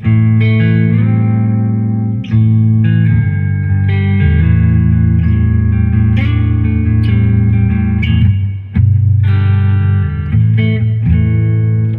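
Electric guitar played on its neck pickup: chords rung out one after another, with full, strong low notes.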